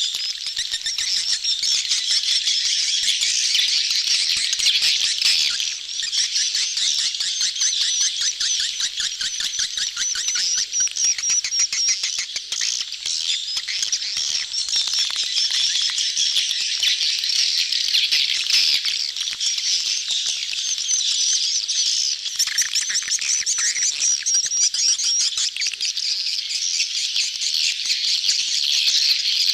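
A crowd of swiftlets chirping and twittering without a break, many rapid overlapping calls at once: the busy chatter of a swiftlet colony in mating season, used as a lure call for swiftlet houses.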